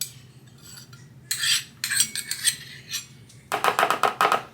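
A spoon scraping yogurt marinade out of one container into a bowl, then a quick run of sharp taps of the spoon against the bowl near the end.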